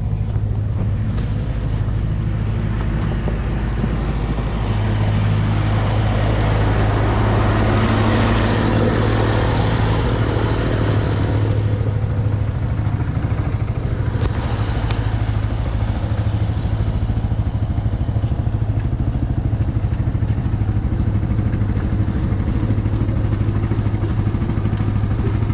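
ATV engine running steadily at idle. A louder rushing noise swells about five seconds in and fades away about six seconds later.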